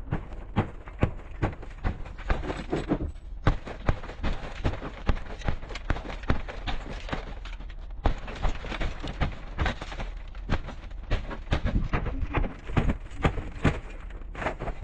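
Hammer blows in quick, irregular succession, several a second at times, during bodywork on a truck cab, over a steady low hum.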